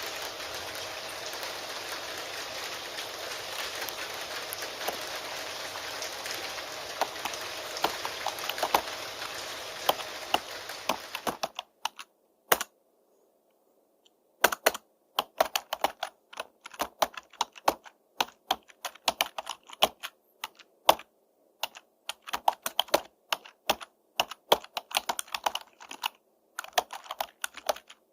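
Steady rain with computer keyboard typing clicking over it. The rain cuts off suddenly a little under halfway through, leaving keyboard typing alone in irregular runs of keystrokes with short silent pauses.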